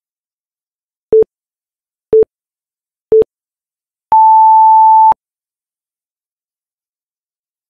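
Electronic interval-timer countdown: three short, lower beeps a second apart, then one long, higher beep lasting about a second. This marks the end of the 10-second rest and the start of the next 20-second work round.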